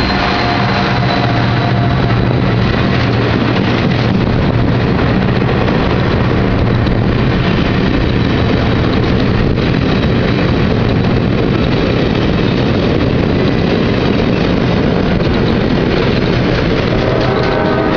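Passing CSX diesel train: a loud, steady rumble of locomotive engines and wheels on the rails. Near the end, a horn chord starts to sound.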